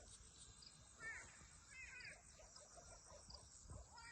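Faint crow calls: two short caws about a second apart, over quiet outdoor background noise.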